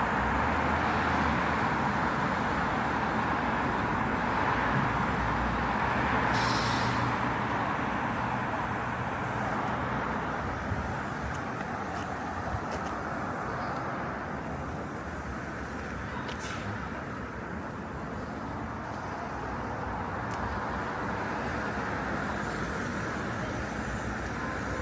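City road traffic passing: a steady rush of cars, louder in the first half and easing off later, with a short hiss about six seconds in.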